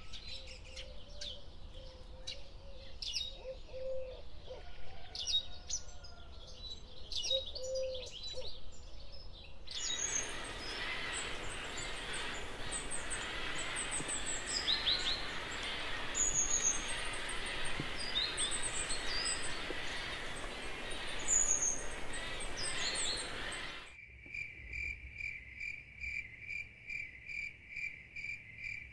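Wild birds calling in a series of recordings: scattered calls with some low hooting notes, then a denser chorus of high chirps over a hiss. About 24 seconds in it cuts to an insect's steady, evenly pulsing trill, typical of a cricket.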